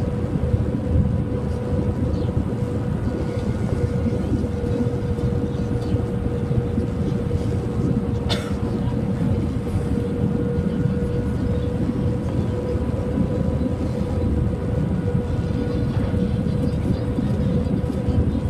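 Steady low roar of an Airbus A321's engines and airflow heard from inside the passenger cabin, with a constant hum running through it. A single sharp click sounds about eight seconds in.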